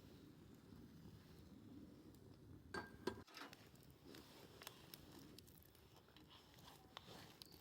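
Faint wood campfire ambience: a low steady hiss with a few sharp crackles about three seconds in.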